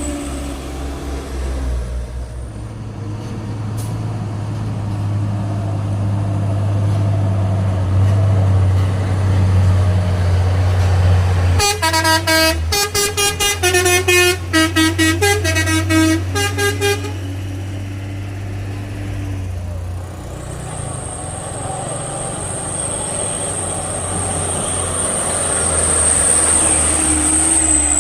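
Heavy diesel truck engine running under load on a steep climb. Midway, a multi-tone musical air horn plays a quick run of about a dozen short notes of changing pitch for about five seconds.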